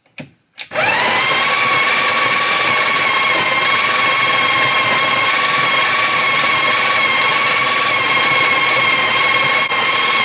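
Two clicks of a switch, then a small electric motor spins up and runs steadily with a high whine: a coffee grinder grinding beans for espresso.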